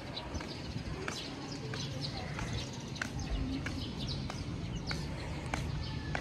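Birds chirping in short, scattered calls over a steady low rumble, with faint voices in the background.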